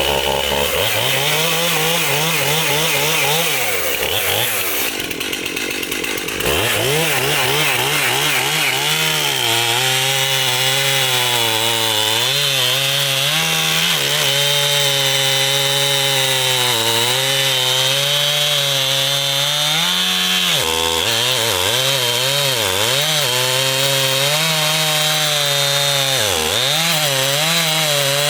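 Stihl chainsaw running at high revs while cutting into wood, its engine pitch wavering and dipping as the chain works through the cut. The revs drop for a couple of seconds near the start and briefly twice near the end.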